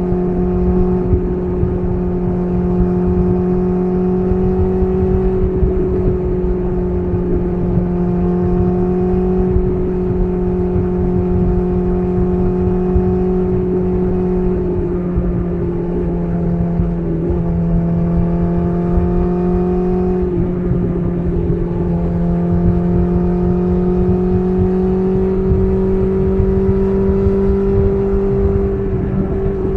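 BMW S1000RR's inline-four engine, fitted with an SC Project CR-T titanium exhaust, running at steady cruising revs. Its pitch dips briefly about 17 and 20 seconds in.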